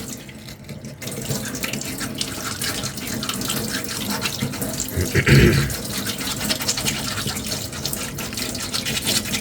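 Sandpaper rubbed by hand over a small spray-puttied cosplay armour ring: a continuous scratchy rasping, with a brief louder sound a little past halfway.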